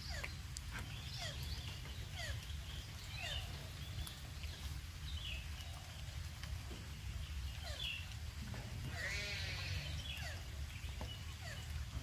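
Birds in an aviary giving scattered short chirps and quick calls, with one harsh, wavering call about nine seconds in, over a steady low hum.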